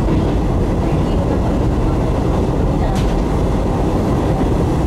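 Izuhakone Railway 5000 series electric train running at speed, heard from inside the front cab: a steady rumble of wheels on rail, with one sharp click about three seconds in.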